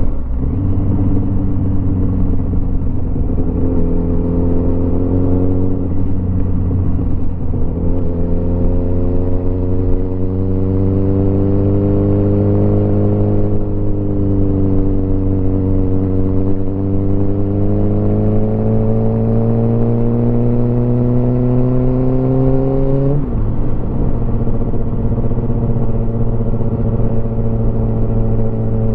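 Motorcycle engine running under way, its pitch rising and falling with the throttle. Near the end it climbs steadily, then drops abruptly at an upshift, with steady wind and road noise underneath.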